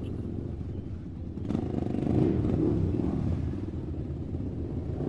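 Engine rumbling low and steady, swelling in a rev about a second and a half in, then easing back.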